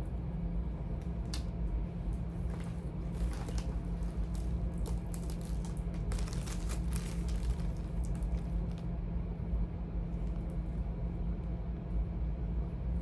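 Charging cords and plastic being handled: rustling with light clicks and taps, busiest in two stretches in the first two thirds, over a steady low hum.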